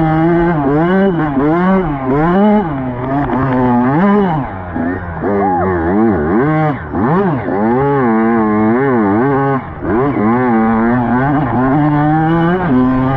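Dirt bike engine revving up and down under riding, its pitch rising and falling every second or so as the throttle is worked. There are brief dips in loudness about five and ten seconds in.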